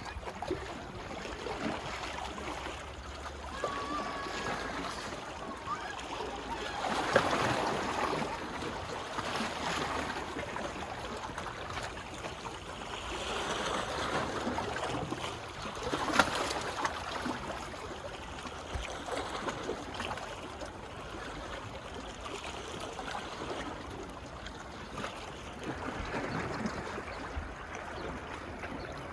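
Small waves washing up on a beach, rising and falling in slow surges every several seconds, with one short sharp click about halfway through.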